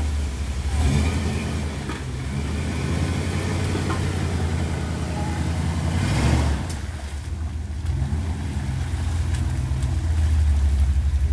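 Off-road Jeep's engine running under load while rock crawling, with a steady low rumble that swells as it revs about a second in, around six seconds in and again near the end.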